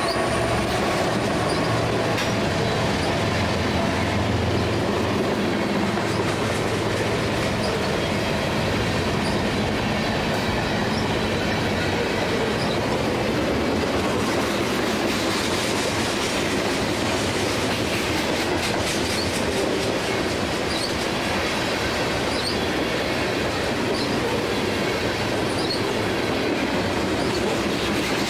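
Diesel-hauled Norfolk Southern freight train passing close. The locomotive's engine hum is heard during the first several seconds, then gives way to the steady rumble of the freight cars rolling by, with faint short high squeaks from the wheels.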